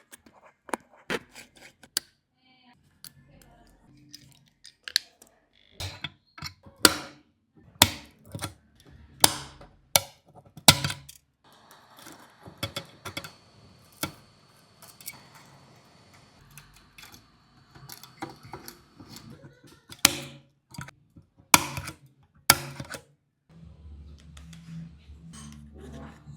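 Hand tools clicking and tapping on an iPhone 13 Pro's housing and glass during a back-glass replacement, in irregular sharp strokes. A faint steady high tone runs through the middle, and a low hum comes in near the end.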